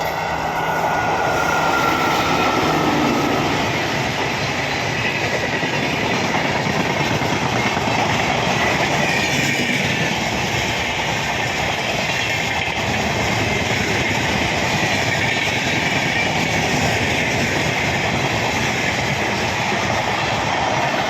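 Train running along the track: a loud, steady rumble and clatter of wheels on rails that builds over the first couple of seconds and then holds, with faint high wheel-squeal tones drifting above it.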